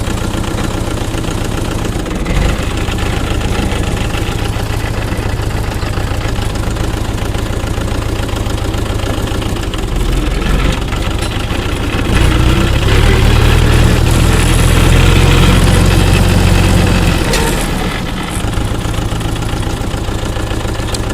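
Tractor diesel engine running steadily, rising in level for about five seconds around the middle, then settling back.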